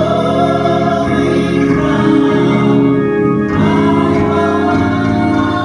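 Gospel choir singing held notes with organ accompaniment.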